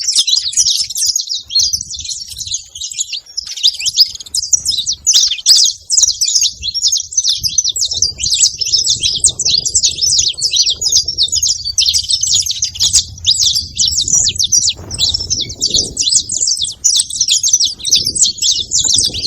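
Saffron finch singing: a long, fast, almost unbroken run of high chirps and trills.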